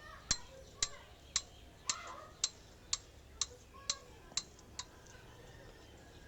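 A series of sharp, regular clicks, about two a second, that stop about five seconds in.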